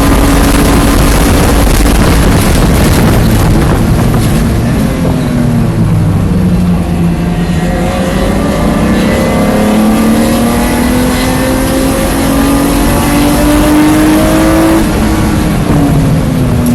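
Onboard sound of a 1993 BMW 325is race car's inline-six engine running hard under wind and road noise. Its pitch dips about four seconds in, then rises steadily for about nine seconds before dropping again near the end.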